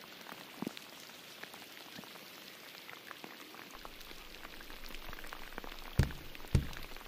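Heavy rain falling: a steady hiss of rain on the water, with scattered individual drops striking close by. A couple of louder knocks come near the end.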